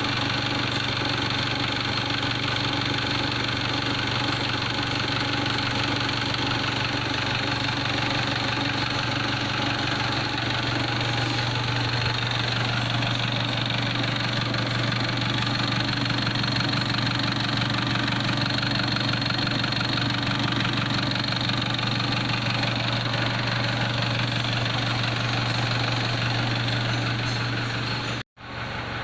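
Mitsubishi 4D56 CRDi four-cylinder diesel engine idling steadily while running on injector cleaner fed through the fuel line for an in-place injector cleaning. The sound cuts out abruptly about a second before the end and comes back slightly quieter.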